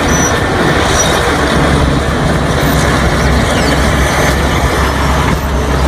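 Loud, steady rumbling of a heavy vehicle, an added sound effect that cuts in and cuts off abruptly.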